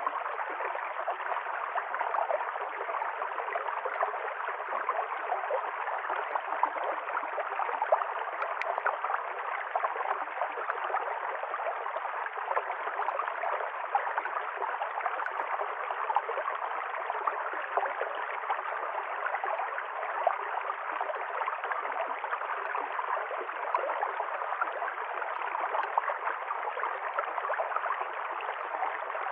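River stream flowing and gurgling steadily over rocks, an even rushing of water.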